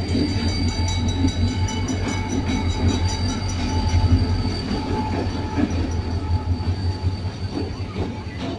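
Pakistan Railways diesel locomotive pulling a passenger train into the station, its engine rumbling low as it passes, followed by the coaches rolling by with a thin steady wheel squeal.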